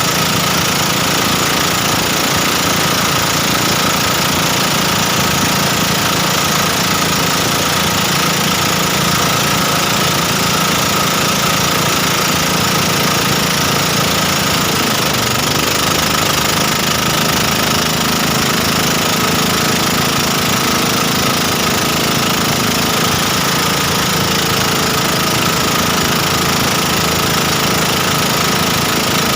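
Motorboat engine running steadily under way, with a broad rush of wind and water; the engine's pitch shifts slightly about halfway through.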